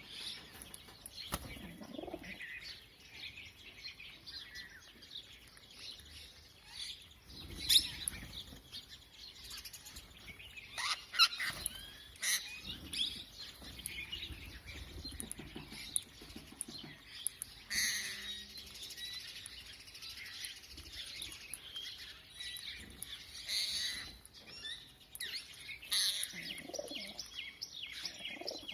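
Parrots calling with many short chirps and squawks while feeding, with sudden flurries of wing flapping now and then, the loudest about eight seconds in.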